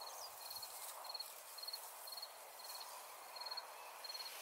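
A cricket chirping: short trilled chirps repeating about twice a second over a faint steady hiss.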